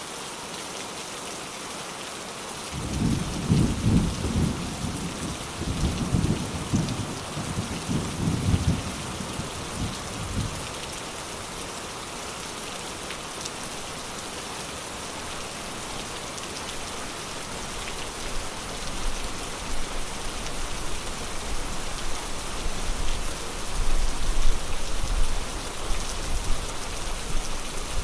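Steady rain falling, with a roll of thunder that breaks in about three seconds in and rumbles in several waves before dying away around ten seconds in; later a low, deep rumble builds slowly under the rain.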